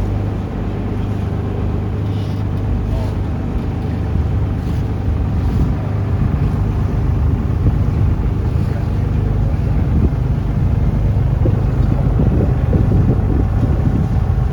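Taxi boat's engine running steadily under way, a loud low hum, with wind on the microphone.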